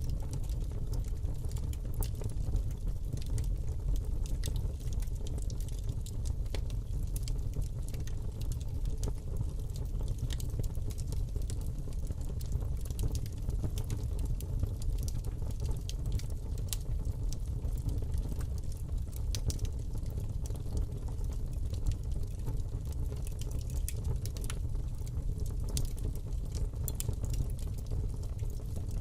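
Fire burning in a fireplace: a steady low rumble of flames with frequent small crackles and pops throughout.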